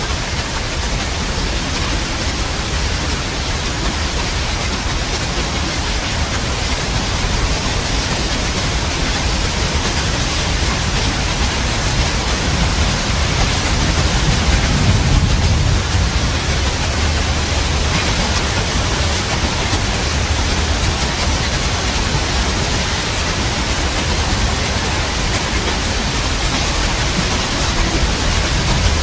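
Steady, dense rain noise. About halfway through, a low rumble of thunder swells and fades.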